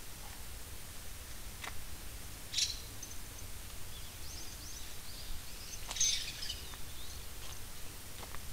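Small birds chirping a few short times, loudest about two and a half and six seconds in, over a steady low outdoor rumble, with a few light clicks.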